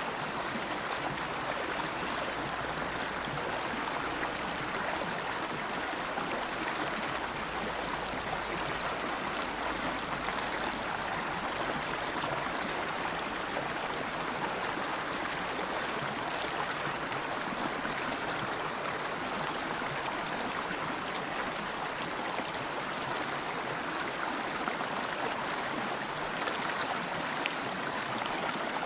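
River water flowing steadily, an even rush with no change in level.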